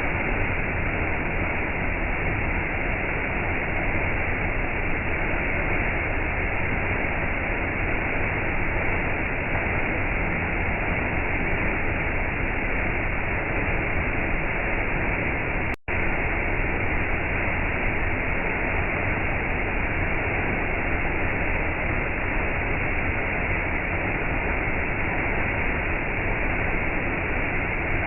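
Waterfall: a steady, even rush of falling water, with no changes in it. The sound drops out for an instant a little past halfway and comes straight back.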